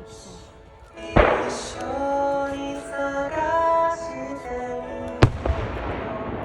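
Two firework shells bursting, one about a second in and another near five seconds, each a sharp bang followed by a fading rumble, over show music with long held notes.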